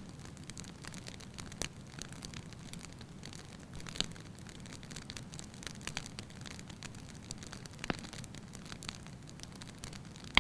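Wood fire in a fireplace crackling, with a steady low rumble of the flames under many small snaps and a few sharper pops, the loudest right at the end.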